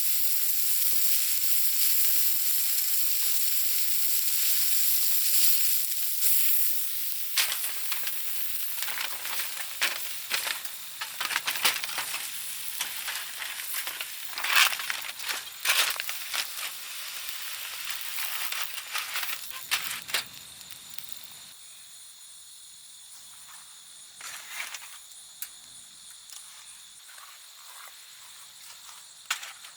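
Meat sizzling on a grill over a campfire, a steady hiss that cuts off about seven seconds in. Scattered clicks and crackles follow, then a quieter stretch with a faint steady high tone and a few clicks.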